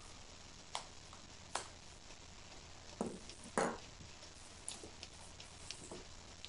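Scattered soft knocks and rustles over a steady hiss, as a Great Pyrenees mother and her newborn pups shift about on their bedding. Four clearer knocks come in the first few seconds, two of them close together, then fainter ones.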